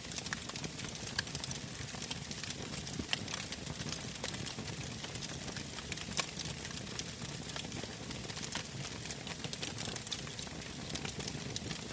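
Wood bonfire burning and crackling, with frequent irregular sharp pops over a steady low hiss.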